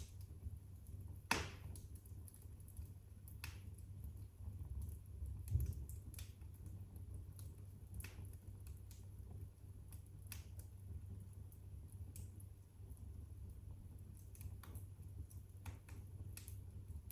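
Wood fire crackling in a fireplace: irregular sharp pops and snaps over a low steady rumble of the flames, the loudest pop about a second in.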